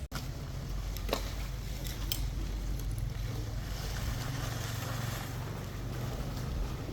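An engine running steadily at a low pitch, with two sharp clicks about a second apart near the start.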